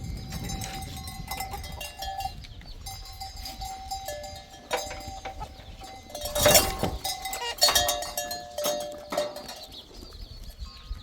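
Livestock with bells, the bells ringing and clinking, and one louder noisy sound about six and a half seconds in.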